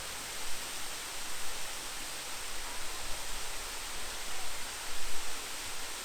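Steady rush of a large park waterfall, an even hiss of falling water, with irregular low gusts buffeting the microphone.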